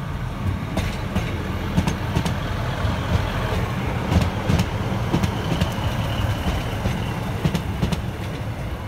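Class 156 Super Sprinter diesel multiple unit passing close by, its underfloor diesel engines giving a steady low rumble. Scattered clicks and knocks come from the wheels on the track, and a faint high squeal is heard about halfway through.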